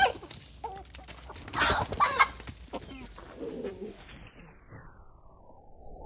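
Chickens calling: several short squawks and clucks, the loudest few coming close together around two seconds in.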